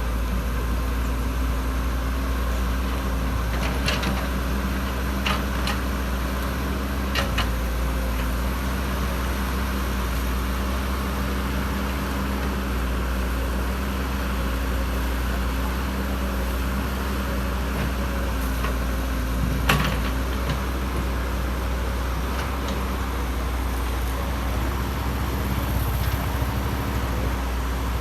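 Excavator's diesel engine running steadily, with a few short sharp knocks over it, the loudest about two-thirds of the way through.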